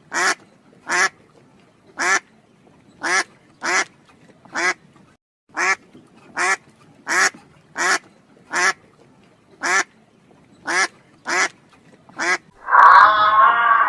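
Duck quacking over and over, about fifteen short nasal quacks spaced under a second apart. Near the end a louder, sustained wavering sound of a different kind cuts in.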